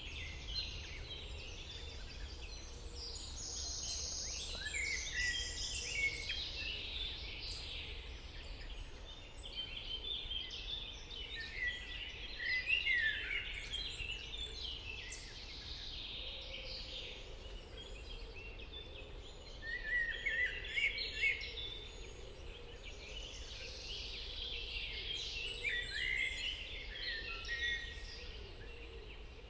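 Several songbirds singing at once, a dense chorus of overlapping trills and chirps that swells and eases in bouts, over a steady low background rumble.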